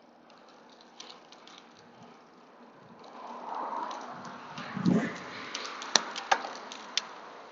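Rustling and sharp clicks close to the microphone, with a swell of noise peaking about five seconds in.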